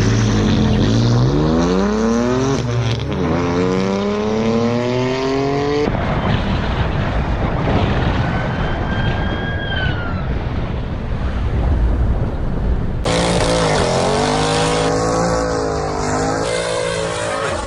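High-performance car engines accelerating hard from a standstill, rising in pitch with a break for a gear change. Then steady rushing wind and road noise at speed. Near the end, an engine is revved high and wavering during a burnout, with tyre screech.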